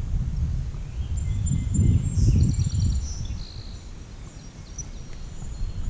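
Wind rumbling on the microphone, swelling and easing, with a small bird singing short, high chirping phrases in the background.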